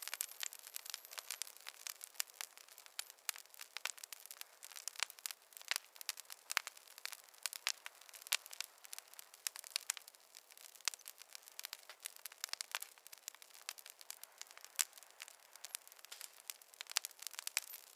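Wood fire crackling in a fireplace: dense, irregular pops and snaps over a soft hiss.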